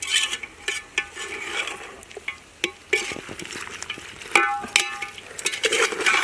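Spoon stirring chicken in a hot frying pan: irregular knocks and scrapes of the spoon against the pan, some ringing briefly, over light sizzling.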